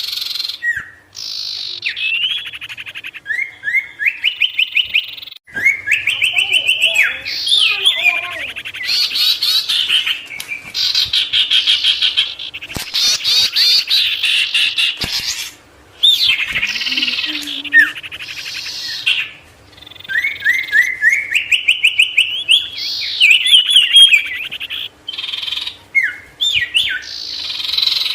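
A sirtu songbird in full, continuous song: long phrases of rapid trills and quick sliding notes, with only brief pauses between them.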